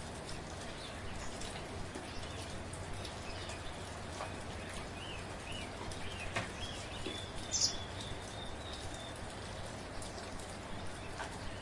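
Steady light rain with scattered individual drops ticking on a surface. A bird chirps a few short times around the middle.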